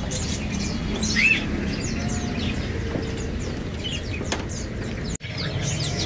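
Many caged songbirds chirping, short high calls scattered over a steady low background hum, with a brief drop-out about five seconds in.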